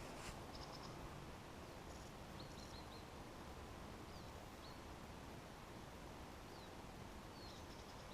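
Faint bird chirps: a handful of short, high notes scattered over several seconds, with a quiet steady hiss underneath.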